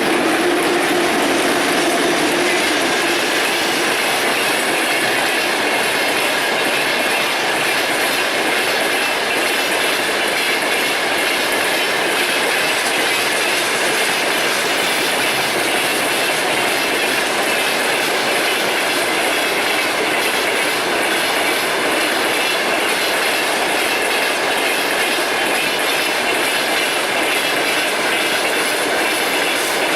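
A heavy freight train rolling steadily past: a continuous clatter of wheels over the rails with a thin, high wheel squeal running through it.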